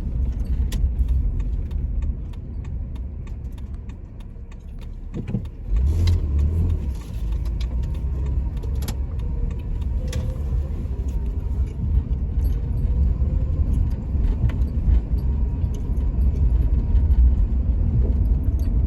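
Vehicle rumble heard from inside the cab of a truck being driven: the engine and road noise ease off for a few seconds, as if slowing to a stop, then rise again about six seconds in as it pulls away. Small clicks and light rattles run through it.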